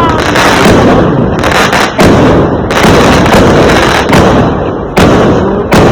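Fireworks and firecrackers going off without a break, a dense crackling barrage. Sharp bangs stand out about two seconds in, about five seconds in and again near the end.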